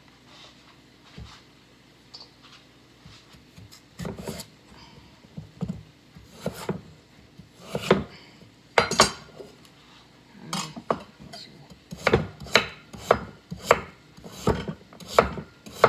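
Knife chopping vegetables on a cutting board. The knocks start about four seconds in, scattered at first, then come about two a second.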